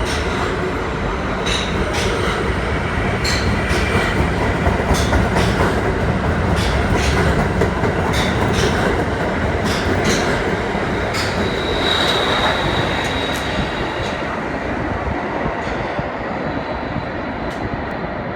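R160 subway car running at speed, heard from inside the car: a steady rumble of steel wheels on rail with sharp clicks scattered through it. About eleven seconds in there is a brief high-pitched wheel squeal.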